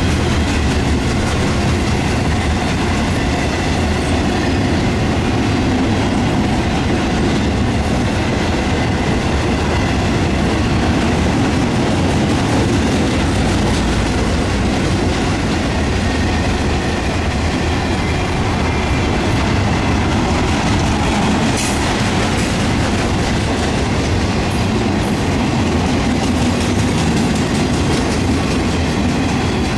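Railroad cars rolling past on the track: steady wheel-on-rail noise that holds for the whole stretch, with a few sharp clicks about three-quarters of the way through.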